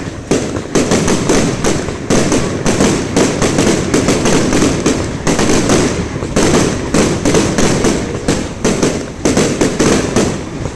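Fireworks going off in a dense, continuous barrage of bangs and crackles, several reports a second.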